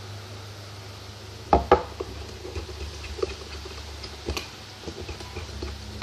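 Spoon stirring slime mixture in a mug, clinking against the sides: two sharp knocks in quick succession about a second and a half in, another near four seconds, and lighter taps and scrapes in between.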